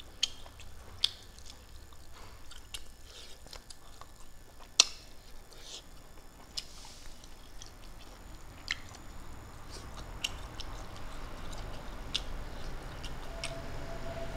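Close-up eating sounds: a person chewing fried fish and rice, with scattered wet mouth clicks and smacks, the sharpest about five seconds in. A low background noise builds over the last few seconds.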